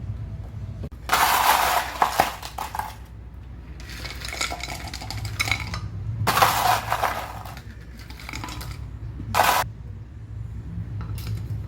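Dishes and cutlery clattering and clinking, in four separate bursts over a steady low hum.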